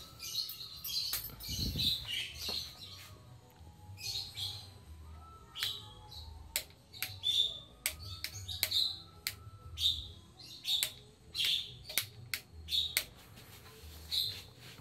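Small birds chirping over and over in short high calls, mixed with sharp clicks.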